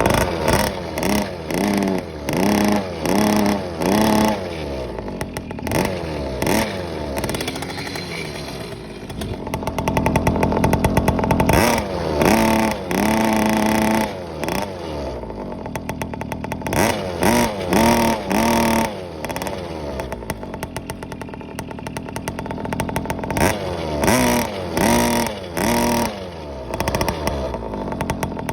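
Car engine, still cold from a cold start, revved in repeated short blips, several in quick succession at a time, dropping back to idle between the bursts.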